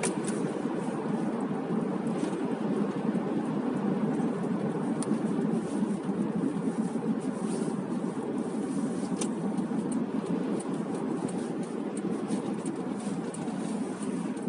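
Steady road and engine rumble heard from inside a moving car's cabin, with a few faint scattered ticks.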